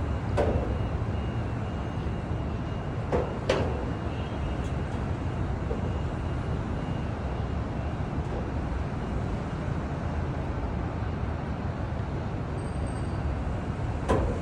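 Steady city traffic noise, with a few short sharp knocks: two close together about three seconds in and another near the end.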